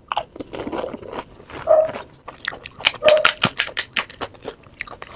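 Close-miked eating of a pani puri (golgappa) that has just been dipped in spiced water: the crisp fried shell crunches and crackles in the mouth as it is bitten and chewed. The sound is a dense run of sharp crunches that thins out near the end.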